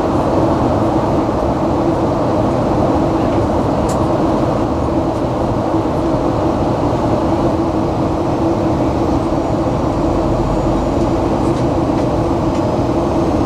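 Airliner cabin noise in flight: the steady drone of jet engines and rushing air, with a constant hum running through it.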